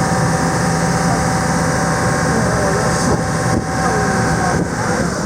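Boat engine running steadily under way, with a steady rushing noise over it.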